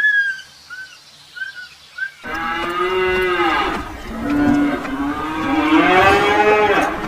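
A few short whistled chirps, then from about two seconds in a cow mooing in two long, loud calls.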